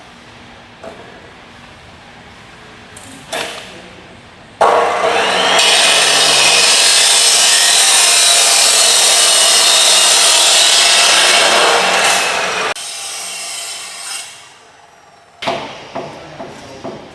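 A power tool runs loudly for about eight seconds, with a quick rising whine as it spins up, then stops. Before and after it come a few short knocks.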